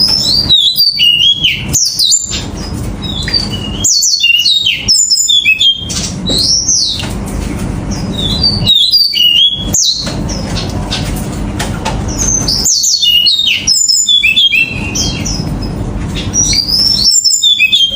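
A 金青 finch (yellow-fronted canary) singing crisp, rapid song phrases of chirps and short trills, in bouts of a second or two with brief pauses between them, over a steady low background rumble.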